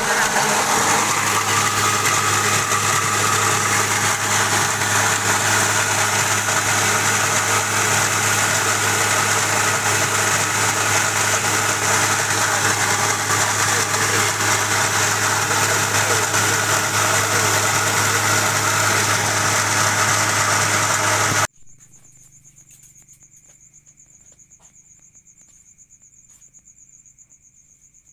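Mini rice huller machine driven by a 5 hp electric motor, running loud and steady with a constant low hum. The machine noise cuts off abruptly about 21 seconds in, leaving crickets chirping quietly.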